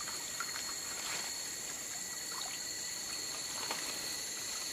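Tropical rainforest ambience: a steady high-pitched insect drone with water trickling beneath it, and a few short faint chirps.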